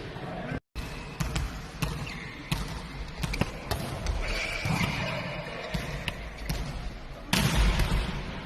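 Volleyballs being struck and bouncing off a hard court floor: a string of sharp smacks at irregular intervals. There is a brief dropout just before one second in and a louder rush of noise near the end.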